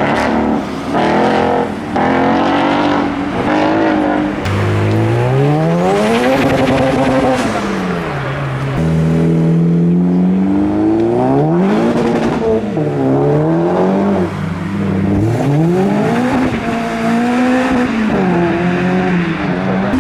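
Modified car engines revving hard as cars pull away, the engine note climbing and dropping again and again.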